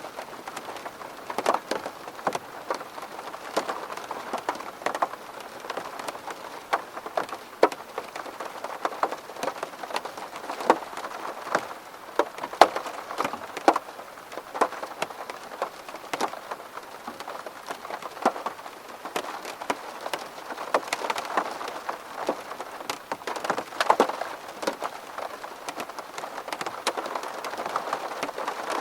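Rain falling on a window pane: a steady hiss with many separate drops hitting the glass at irregular moments.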